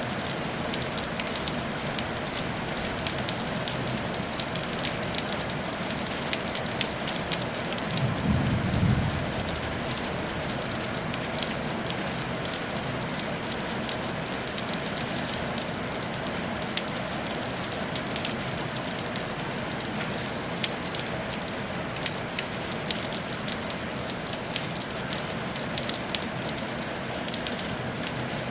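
Steady rain falling on a tile roof, a constant hiss with many fine individual drop ticks. About eight seconds in, a brief low rumble rises and fades within about a second.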